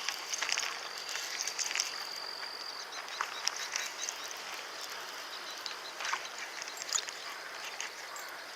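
Outdoor ambience: a steady high-pitched insect drone that stops about three seconds in, with scattered short chirps and clicks over a faint hiss.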